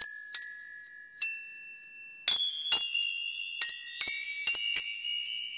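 High metallic chimes, struck singly at first and then in a quicker cascade of several strikes a second, each tone ringing on and overlapping the next, like a sparkly 'magic' chime effect.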